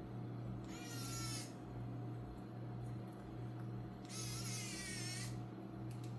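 Small electric screwdriver whirring in two short bursts as screws are driven, the second burst longer and louder, over a steady low hum.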